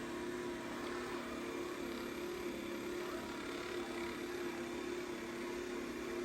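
Dreame X40 Ultra robot vacuum running, a steady hum with a constant tone from its suction fan and brushes.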